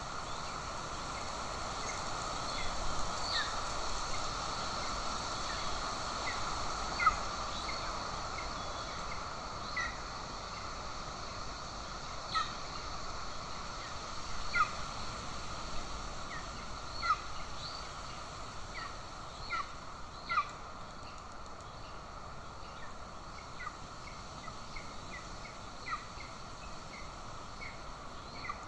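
Short, high bird chirps repeated at irregular intervals, a few louder than the rest, over a steady background hiss.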